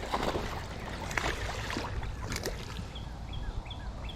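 Water sloshing around a small fishing boat, a steady wash with a few sharp clicks from handling gear aboard.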